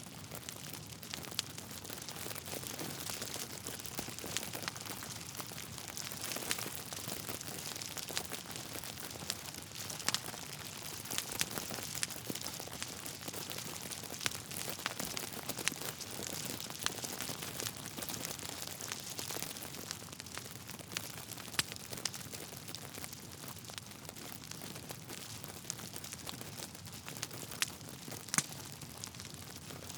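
Wood fire crackling in a fireplace: a steady soft hiss with many small, irregular pops and snaps, a few of them louder.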